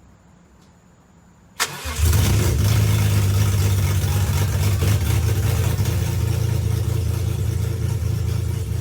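BMW S54 3.2-litre straight-six from an E46 M3 starting up for the first time after a rebuild: a sharp click about a second and a half in, a brief crank, then it catches and runs steadily.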